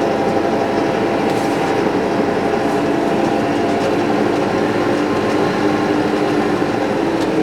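TYM tractor's diesel engine running steadily at low throttle, a constant drone with no change in speed.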